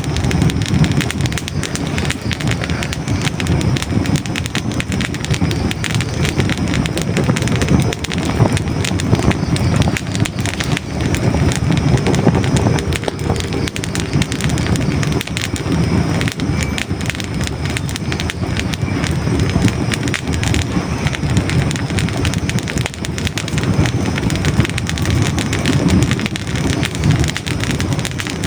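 Hardwood logs burning in a fireplace: a steady low rush of flame with dense, continual crackles and small pops.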